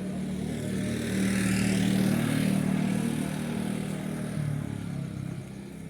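A motor vehicle's engine passing close by, its sound swelling to a peak about two seconds in and then fading.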